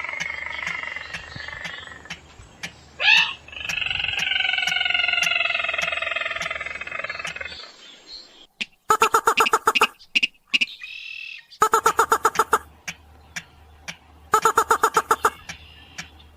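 Bird-lure recording of slaty-breasted rail (mandar-padi sintar) calls. The first half holds long, drawn-out nasal calls with a quick upward sweep about three seconds in. The second half holds short bursts of rapidly repeated sharp notes, each about a second long, coming roughly every two and a half seconds.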